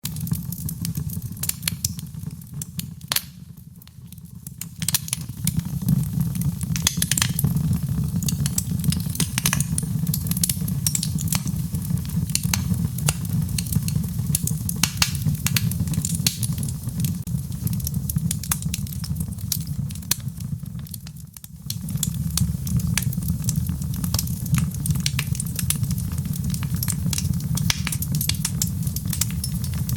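Wood fire crackling in a fireplace: dense sharp pops and crackles over a steady low rumble of the burning fire. The sound dips briefly a few seconds in and again about two-thirds of the way through.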